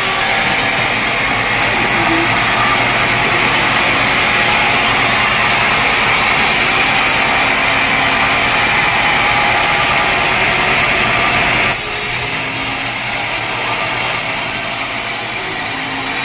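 Sawmill saw cutting through a teak log with a steady, loud whine of blade and wood. About twelve seconds in, the high-pitched part of the sound drops away suddenly and the sound becomes a little quieter.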